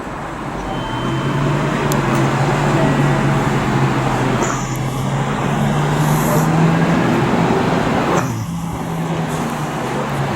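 A motor vehicle running close by: a steady low hum over road-like noise, climbing slightly in pitch for several seconds and dropping suddenly about eight seconds in before carrying on.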